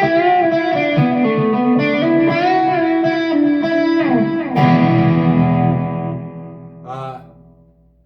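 Electric guitar lead through a Peavey Vypyr X2 modelling amp with a Tube Screamer overdrive: single notes with string bends, a slide down the neck about four seconds in, then a held note that rings and fades out.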